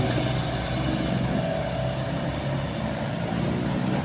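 Truck engine running steadily at a low, even pitch.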